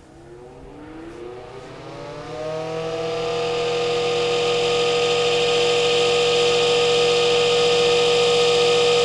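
Sears Kenmore model 135.80030 8-inch single-speed table fan starting up when plugged in. Its motor hum rises in pitch over about three seconds as the blade comes up to speed, then holds at a steady hum and whir. It still runs well.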